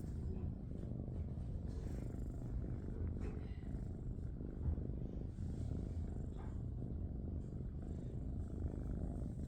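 Domestic cat purring steadily and continuously, a low rumbling purr close to the microphone.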